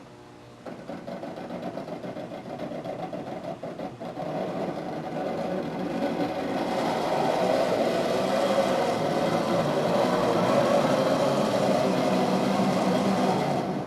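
Lionel 2065 O-gauge model steam locomotive running on three-rail track with its train of cars: a whirring motor and gear drive with wheel and rail noise, getting louder over several seconds as power and speed build for a run at the incline, then cutting off suddenly near the end when the power is shut off.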